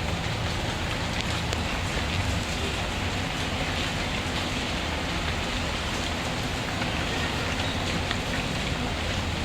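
Steady rain falling, with faint scattered crackles from a fireplace fire.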